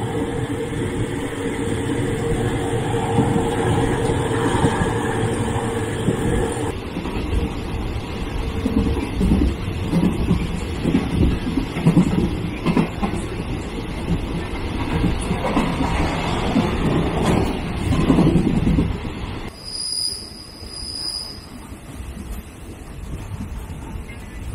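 Passenger carriage of an ordinary Thai State Railway train heard from inside through an open window: a steady rumble and rattle of the carriage running, swelling unevenly. About 19 seconds in it drops quieter as the train slows into a station, with a few short high squeals.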